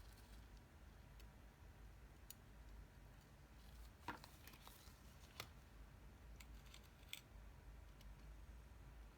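Faint, scattered small clicks and taps of hand tools and small parts during the repair of an e-reader's USB connector, over a low steady hum. The clicks are scattered, with a few about four seconds in and more a couple of seconds later.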